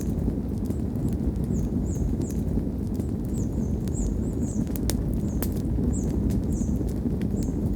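Wood campfire burning: a steady low rush of flames with frequent sharp crackles and pops, two louder snaps near the middle. Short high chirps repeat in pairs over it.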